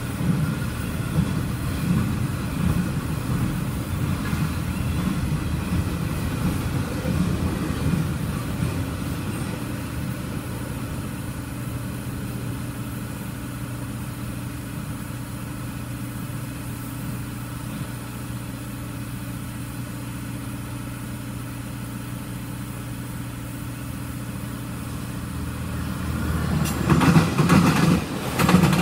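Freight train cars rolling past with a steady rumble and low hum that eases off through the middle. From about 26 seconds in, Metrolink commuter coaches pass close by with loud wheel clatter.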